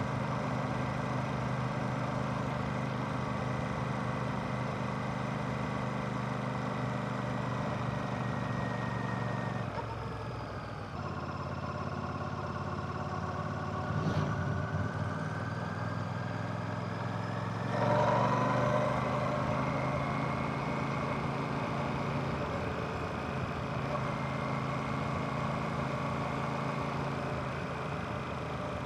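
Royal Enfield Classic 650's 648cc air/oil-cooled parallel-twin engine and exhaust running steadily. The engine note falls away about ten seconds in, then climbs again, louder, at around eighteen seconds.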